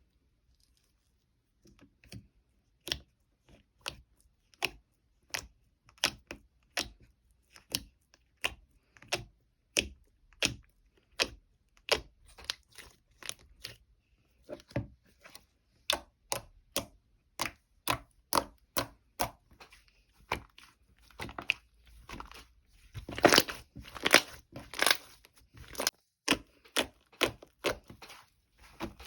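Crunchy food being chewed close to the microphone, one crisp crunch after another at about one and a half a second, with a louder, denser run of crunches near the end.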